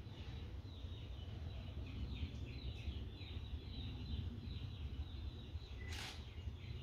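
Small birds chirping over and over in short, falling chirps, several a second, above a steady low rumble. A brief sharp noise comes near the end.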